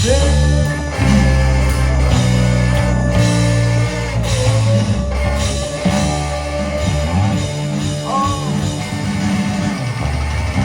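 Live garage-rock band with electric guitar, bass and drums, coming in loud all at once after a near-silent pause; a long held guitar note rings over the bass.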